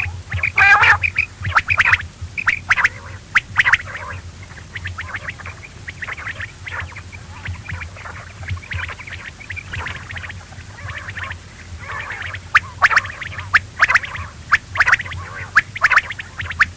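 Quail calling again and again in short, sharp notes that come in irregular runs, over a steady low hum.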